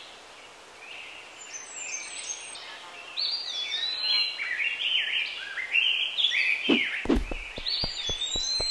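Several small birds chirping and singing over a steady outdoor hiss, the calls busier after about three seconds. A few low thumps come in the last two seconds.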